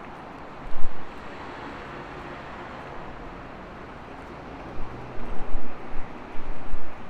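Urban street ambience: a steady hum of city traffic, with loud, low buffeting on the microphone about a second in and again through the last two seconds.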